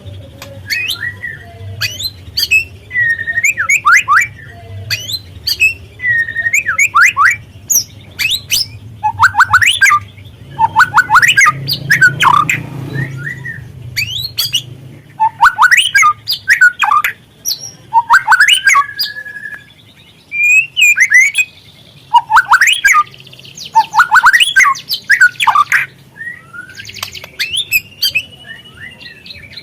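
A young white-rumped shama singing: loud bursts of rapid chattering and sweeping whistled notes, each phrase a second or two long, repeated with short pauses.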